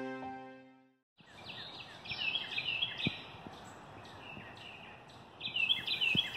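Background music fades out within the first second. After a brief gap, small birds chirp in clusters of quick, short calls over a steady low hiss.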